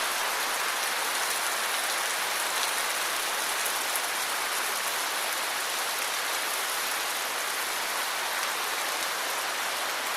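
Steady rain falling in a dense, even hiss, with faint ticks of single drops in it.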